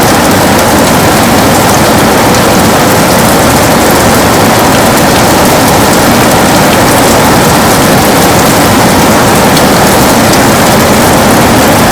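Heavy rain falling on a window, a steady dense hiss with faint ticks of single drops.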